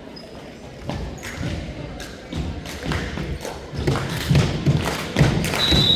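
Repeated dull thuds and taps, getting busier and louder from about a second in, with voices mixed in.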